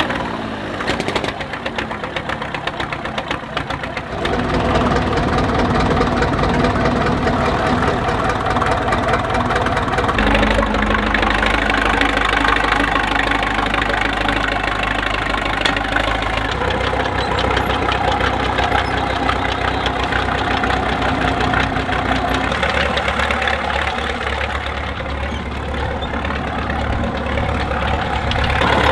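Tractor engines running as tractors drive in one after another, the engine note changing several times as a different machine takes over.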